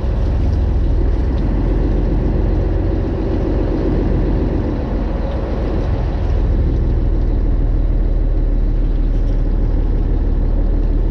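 Fishing boat's engine running steadily: a low, even drone with a hiss of wind and water over it.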